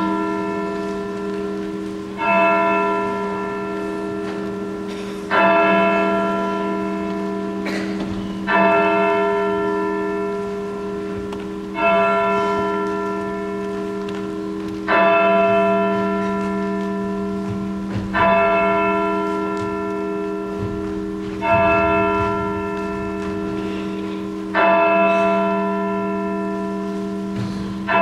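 A single large bell tolling slowly, struck about every three seconds, nine strokes in all. Each stroke rings on into the next.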